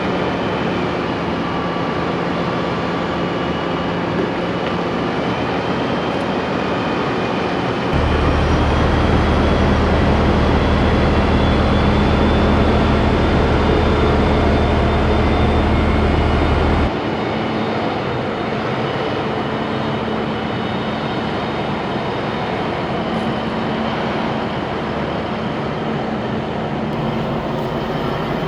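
Heavy diesel engine running steadily, with a deeper low rumble from about 8 to 17 seconds that starts and stops abruptly.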